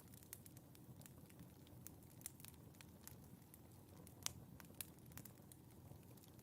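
Fire in a fireplace crackling faintly: a low steady hiss with scattered sharp pops, the loudest about four seconds in.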